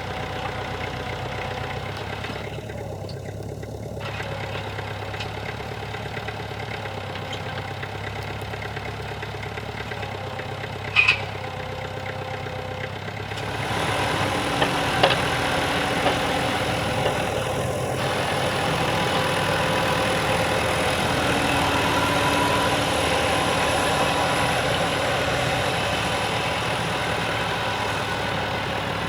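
Tractor engine running steadily while working a field. About halfway through it gets louder and a thin, high whine comes in. A brief sharp clack sounds a little before that.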